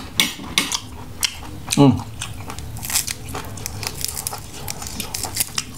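A person eating grilled squid and raw vegetables close to the microphone: chewing with many sharp mouth clicks and crunchy bites, and a brief hum just before two seconds in.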